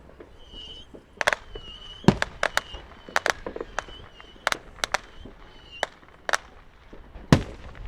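Fireworks going off: a quick series of sharp bangs and pops, the loudest about two seconds in and again near the end, with a thin high tone coming and going under the first part.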